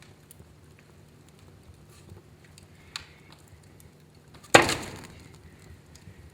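Wood fire burning in a fireplace, crackling faintly, with a small pop near three seconds and one loud, sharp pop about four and a half seconds in that dies away quickly.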